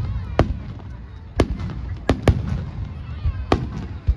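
Aerial firework shells bursting: about six sharp bangs, two of them close together near the middle, over a continuous low rumble of distant bursts.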